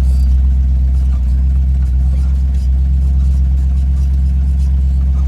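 A car engine runs with a steady, unchanging low drone.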